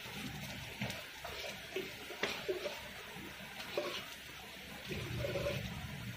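Chopped onion, carrots and peas frying gently in a nonstick pan with a steady light sizzle, while a wooden spatula stirs them, scraping and knocking against the pan now and then.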